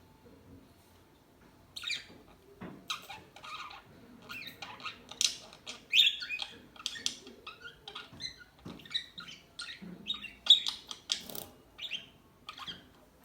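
Pet parakeets chattering in short, irregular chirps and squawks, starting about two seconds in.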